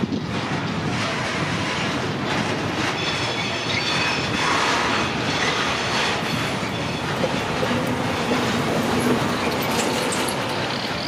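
A train passing close by, its steel wheels running loudly and steadily over the rails. A thin, high wheel squeal rises above the rumble about three seconds in and lasts a couple of seconds.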